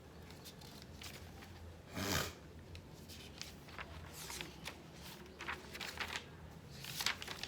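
Faint handling noises in a small room: light scratches and clicks, with a louder rustle about two seconds in.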